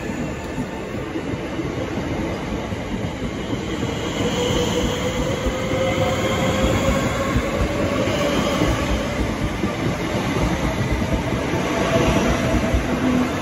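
Southeastern electric multiple-unit train rolling past close by: steady rumble of wheels on rail with a whine from the traction motors that slowly rises in pitch.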